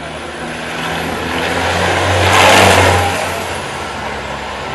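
A motor vehicle's engine running as it drives past, growing louder to a peak about two and a half seconds in and then fading away.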